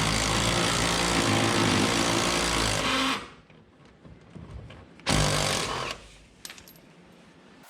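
A power tool runs in a long burst of about three seconds, stops, then runs again briefly about five seconds in.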